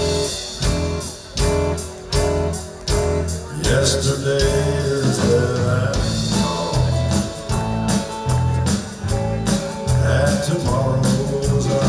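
Live country band music with a steady beat, bass and guitar, with a wordless voice or lead line rising over it about four seconds in and again near the end.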